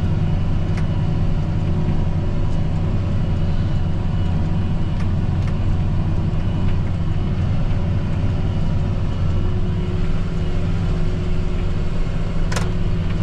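John Deere 8230 tractor's six-cylinder diesel engine running steadily under load while pulling a disc harrow, heard from inside the cab. A single click comes near the end.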